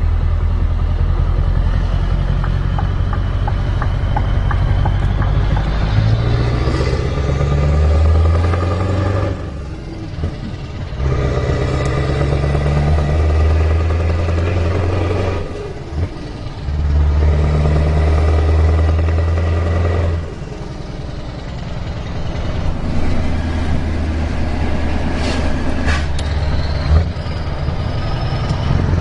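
Scania V8 diesel truck engine pulling hard, its deep note rising under load. The note is broken by short dips about every five seconds as the gears are changed, and runs softer over the last several seconds.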